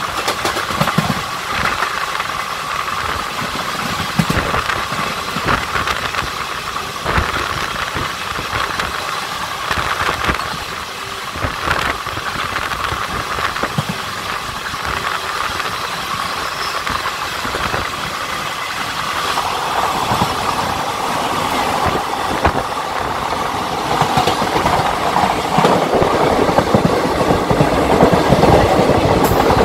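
Two passenger trains running side by side at speed, heard from an open coach doorway: steady rumble and wind with wheels knocking over rail joints and coaches rattling. The noise swells louder in the last few seconds.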